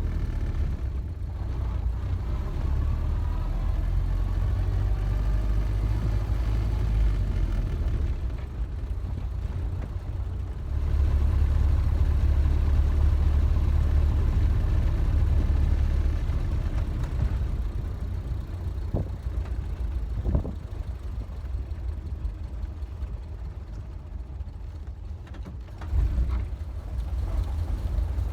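Ford Model A's four-cylinder flathead engine running, with its manifold gaskets freshly replaced. It grows louder for several seconds partway through, then settles back, and there is a brief louder spot near the end.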